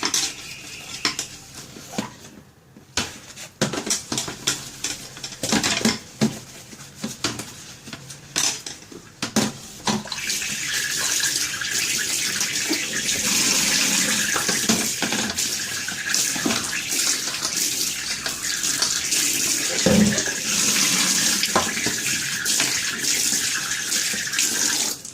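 Fridge trays and containers knocking and clattering in a kitchen sink, then from about ten seconds in a tap runs steadily as they are washed and rinsed; the water cuts off right at the end.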